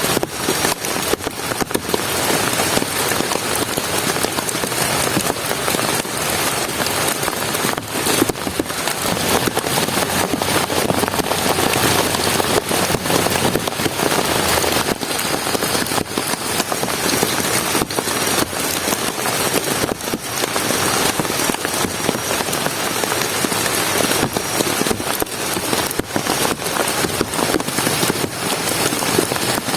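Heavy rain falling steadily: a dense hiss made of many individual drops striking a surface.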